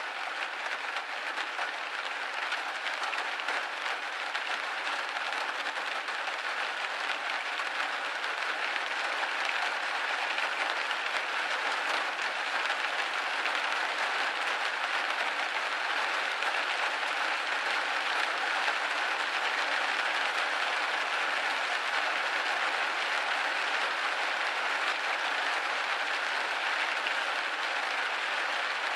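Rain pattering steadily on a window pane, a dense, even hiss of many small drops.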